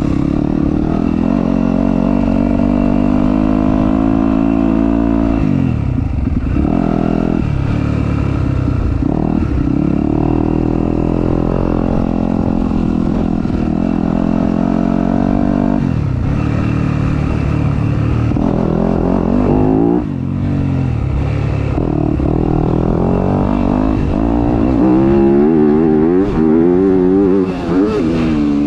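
Dirt bike engine revving hard and easing off again and again, the pitch climbing and then dropping sharply as the throttle is shut. Near the end the pitch wavers quickly up and down.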